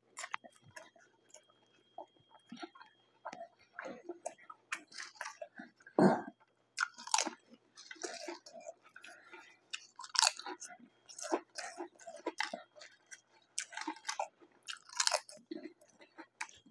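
A person chewing a sub sandwich and crunching potato chips, with irregular crisp crunches.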